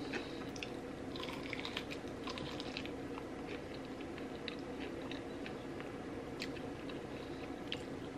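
Close-miked chewing and crunching of food, with crisp clicks of bites clustered in the first few seconds and scattered after, over a steady low hum.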